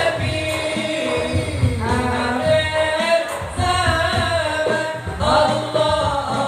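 Madurese sholawat sung by voices in a long, gliding melody over steady percussion.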